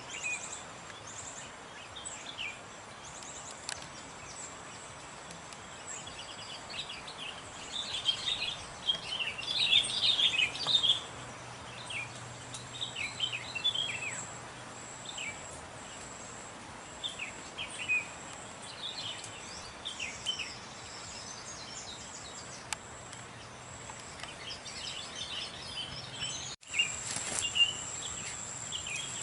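Small birds chirping in short, scattered high calls, busiest in the first half, over a steady high-pitched insect drone. Near the end the sound breaks off for an instant and the insect drone comes back louder.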